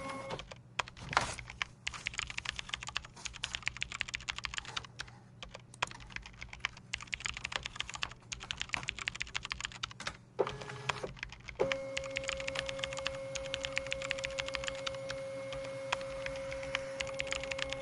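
Computer keyboard typing: rapid, continuous key clicks. A steady high hum drops out right at the start and comes back about twelve seconds in, with a brief lower tone just before it returns.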